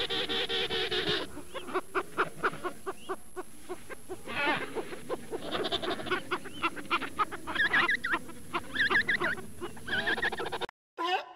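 African penguins braying, the donkey-like call of the species. A long drawn-out call ends about a second in, followed by runs of quick pulsed honks and wavering calls. The calling cuts off suddenly near the end.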